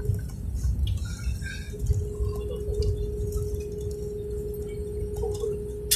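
Airliner cabin noise during landing: a low rumble with a steady mid-pitched hum that cuts out just after the start and comes back under two seconds in, and a sharp click near the end.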